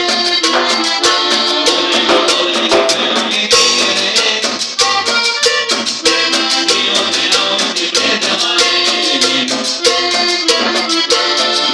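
Norteño band music playing with a fast, steady beat.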